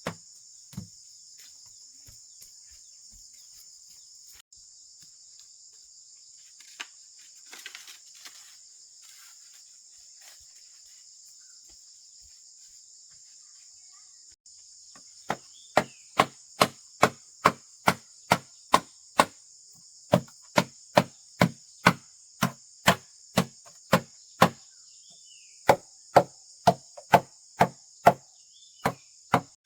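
Rapid, even blows of a tool striking wood, about two a second, starting about halfway through and broken by two short pauses; a few scattered knocks and a brief rustle come before. A steady high drone of insects runs underneath.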